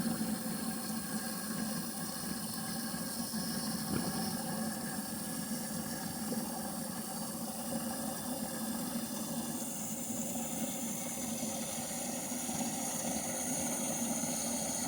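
Water running steadily from a hose into the pigs' plastic water tank as it fills.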